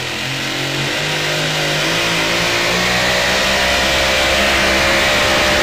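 Supercharged engine of a super modified two-wheel-drive pulling truck running hard under load, its pitch climbing slowly and growing steadily louder.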